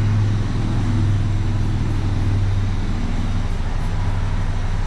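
A steady low mechanical hum over a constant rushing noise.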